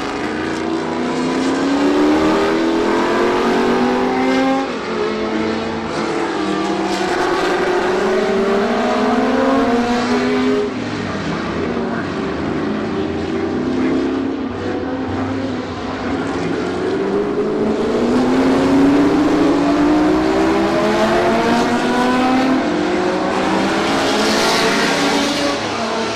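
Historic sports racing cars at full throttle, engines revving up through the gears: the pitch climbs again and again, dropping back at each gear change.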